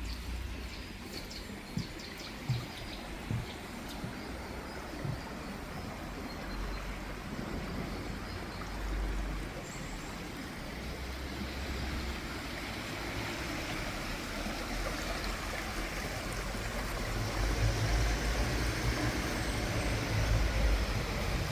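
Steady rush of running water that grows louder over the last few seconds, with a few sharp ticks near the start and irregular low rumbles underneath.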